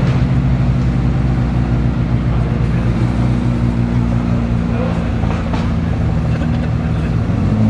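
McLaren twin-turbo V8 supercar engines running at low revs as the cars creep past, a steady deep note. The note swells slightly near the end.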